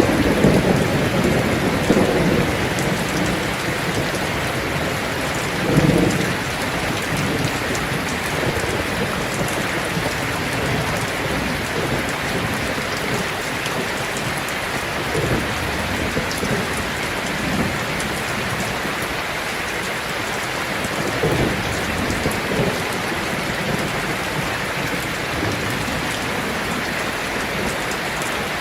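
Heavy rain drumming steadily on a tin roof, with low rolls of thunder that swell near the start and again about six seconds in, and fainter ones later.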